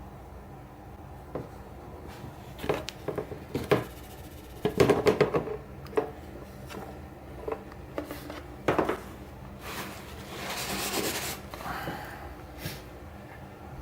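Objects being handled: a scattered run of knocks and clicks, densest about five seconds in, then a rustling hiss lasting about a second and a half, followed by a few light ticks.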